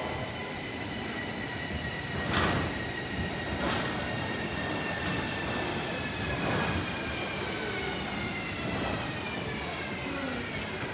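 Electric tram running on rails: a steady motor whine whose pitch falls slowly over the second half as the tram slows, over rolling rumble, with three sharp knocks of the wheels on rail joints, the loudest about two seconds in.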